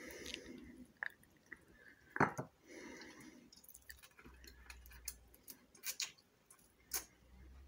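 A person biting and chewing crispy-skinned Chinese roast pork: faint, scattered crunches and clicks, with one louder sharp click about two seconds in.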